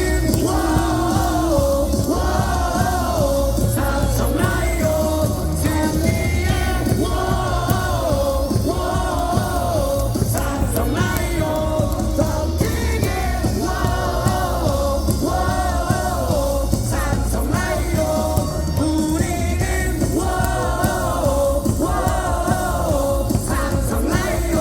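Baseball cheer song played loud over stadium loudspeakers, with a steady bass beat and singing that repeats a short melodic phrase every second or two.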